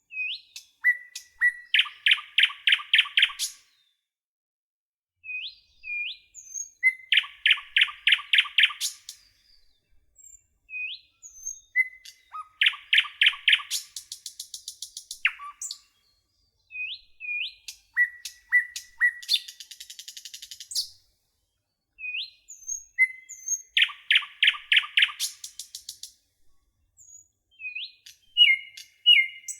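A songbird singing the same phrase about every five and a half seconds: a few short whistled notes, then a fast run of loud repeated notes lasting about two seconds.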